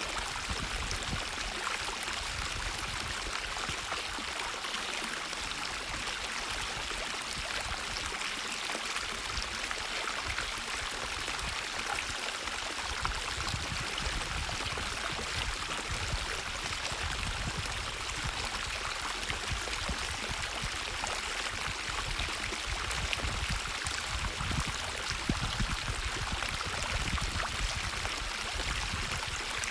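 Stream water flowing with a steady rushing sound and an uneven low rumble beneath it.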